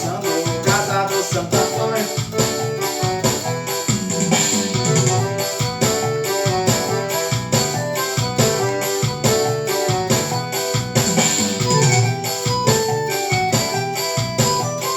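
Forró instrumental played on a Casio MZ-X500 arranger keyboard: a keyboard melody over a steady, even drum beat and bass line.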